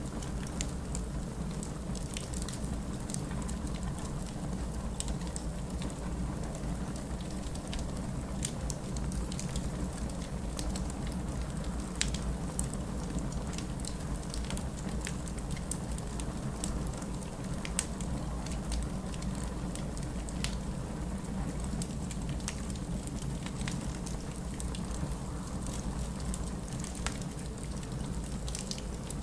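Wood fire in a fireplace crackling, with irregular sharp pops scattered through a steady low rushing background.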